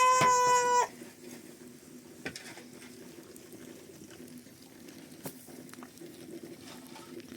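A baby's cry, one long high wail that breaks off about a second in. Then a faint, steady watery sound with a few small clicks.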